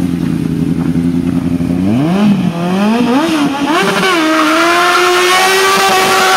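The engine of a modified ZAZ Zaporozhets car revving as the car slides around close by. It runs low and fairly even for about two seconds, then the revs climb and swing up and down. From about four seconds in they are held high and steady.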